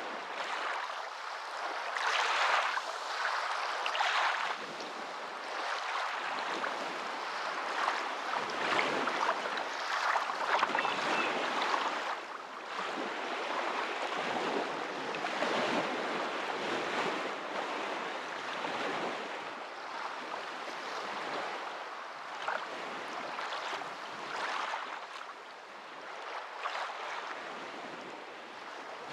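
Continuous rushing water, a steady hiss that swells and dips every second or two.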